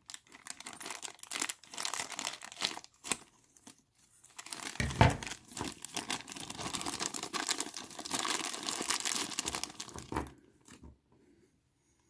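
Plastic bags crinkling and rustling as they are handled and torn open, with many sharp crackles and one louder thump about five seconds in; the handling stops near the end.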